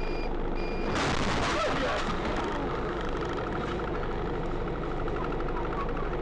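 A vehicle's reversing alarm beeping in even pulses, stopping shortly after the start. About a second in comes a sudden loud rush of noise over steady road noise.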